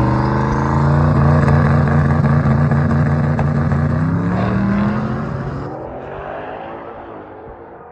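Drag car's engine under full throttle on a pass down the strip: its pitch climbs steadily for about four seconds, then the sound falls away as the car pulls off into the distance.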